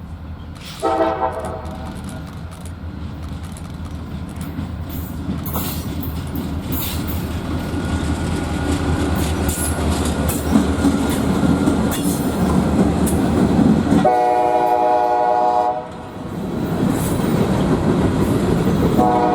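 Diesel freight locomotive approaching, sounding its air horn. There is a short blast about a second in, then the rumble of the engine and wheels grows steadily. A longer blast of about two seconds comes near the end, and another blast starts just as it finishes.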